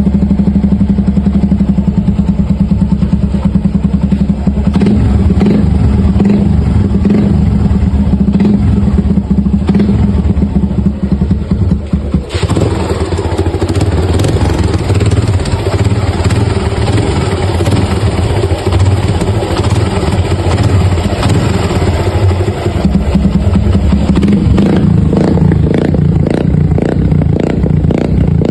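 Suzuki Gixxer 150's single-cylinder engine running with a rapid knocking clatter, the sound of piston slap. About twelve seconds in the sound turns brighter and noisier.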